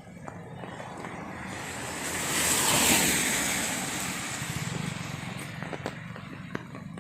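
A vehicle passing on a rain-wet road: a tyre hiss swells to a peak about three seconds in and slowly fades, with scattered drips of rain ticking around it.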